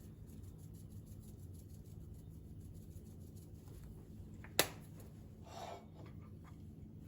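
Quiet handling sounds over a low steady hum: a single sharp click a little past halfway, then a brief soft rustle.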